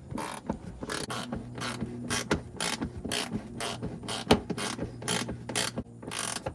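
Hand ratchet clicking in short, irregular strokes while tightening a 10 mm fastener.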